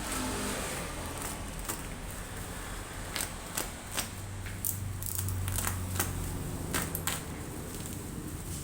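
Irregular clicks, taps and light rustling of a laptop, its cables and its packaging being handled during unboxing, over a faint low hum.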